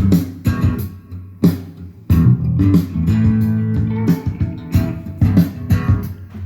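Guitar music with a bass line, played through a Sony TA-212A stereo amplifier as a sound test after its recap and adjustment.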